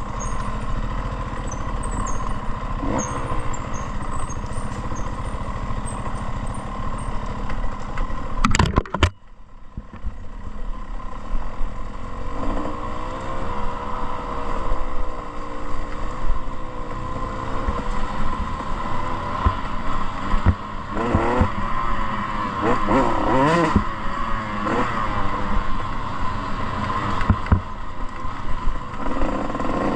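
Motocross dirt bike engine running under riding, with wind noise on the helmet-camera microphone. About a third of the way in there is a sharp clattering knock and the engine noise dips briefly, then the engine revs up and down repeatedly.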